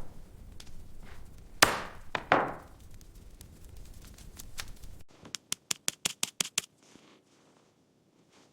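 Two sharp chopping-like strikes, each with a ringing tail, then a quick run of about a dozen short clicks.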